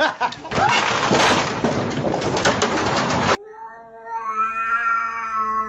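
A cat's long, steady meow lasting about two seconds near the end. It comes after a loud rough noise that cuts off suddenly about three seconds in.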